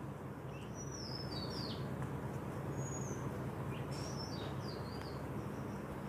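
Small birds chirping in the background: a few quick falling chirps about a second in and again around four seconds, over a steady low hum.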